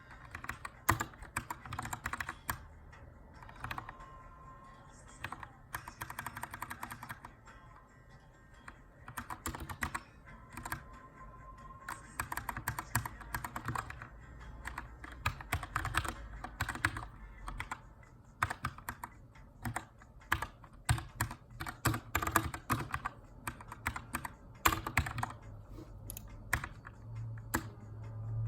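Typing on a Keychron K2 mechanical keyboard with brown switches: runs of quick key clacks in bursts with short pauses between, as in text editing. Faint background music plays underneath.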